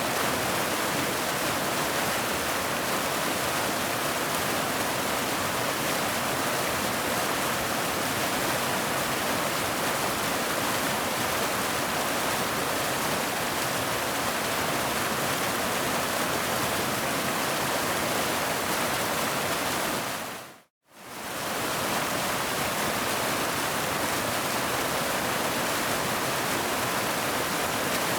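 Waterfall rushing steadily. It fades out to a moment of silence about two-thirds of the way through, then comes straight back in.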